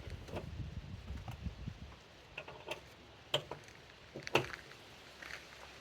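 Scattered sharp clicks and clinks of a socket tool working the seat-mounting bolts, about six over the last few seconds, after low rumbling handling noise in the first two seconds.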